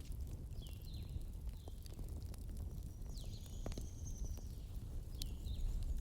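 Campfire crackling steadily over a low rumble of flames. Short high chirps come several times, with one longer high call around the middle.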